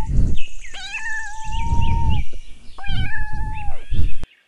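Domestic cat meowing loudly, with about three drawn-out meows, the middle one the longest. A low rumbling noise sits under the calls, and the sound cuts off abruptly near the end.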